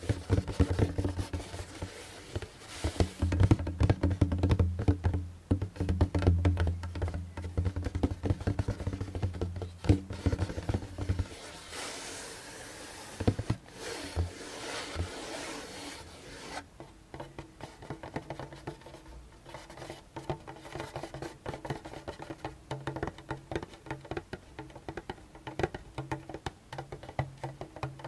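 Djembe played with the hands for ASMR: rapid tapping on the skin head with a low, resonant boom. About eleven seconds in this gives way to a few seconds of scratching or rubbing on the head, then lighter, quicker fingertip tapping.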